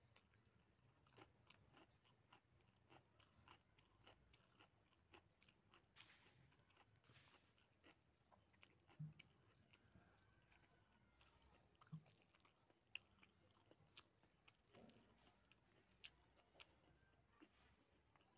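Faint, close chewing of a mouthful of rice and pork, with scattered sharp mouth clicks at irregular intervals.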